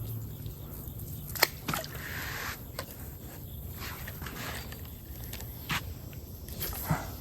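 Outdoor creek-side ambience: a steady high insect buzz over a low rumble, broken by about six short sharp clicks or taps at irregular intervals.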